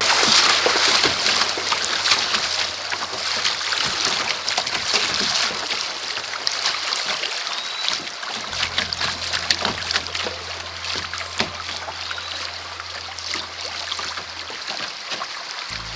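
Rushing creek water splashing and sloshing around a kayak moving through a riffle, with many sharp splashes. It is loudest at the start and eases a little later on.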